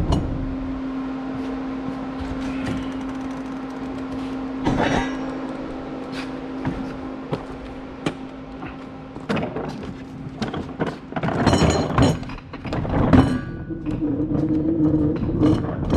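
Shop cart carrying a tack-welded steel forge base rolling across the shop floor, rattling and knocking, with louder metal clanks about eleven to thirteen seconds in. A steady hum runs through the first half.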